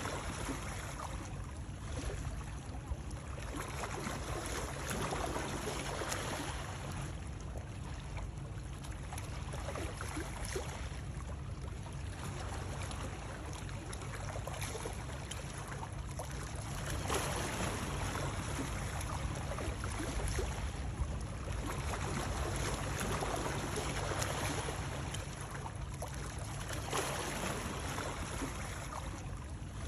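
Continuous water sound, a steady rushing and splashing that swells and eases every few seconds.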